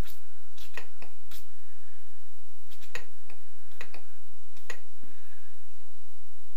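A series of about a dozen sharp clicks and taps at irregular intervals, the loudest about three seconds in and again near the end.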